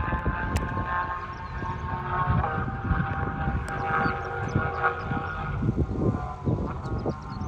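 Sports car engine revving high on a race track, a sustained tone whose pitch rises and falls, over uneven low rumbling.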